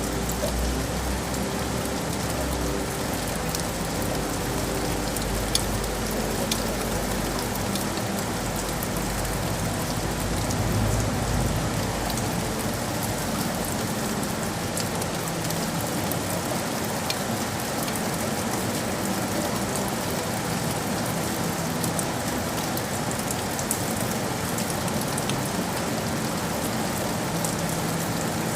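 Steady rain falling on hard surfaces, with scattered sharp ticks of single drops. A low rumble underneath fades out about twelve seconds in.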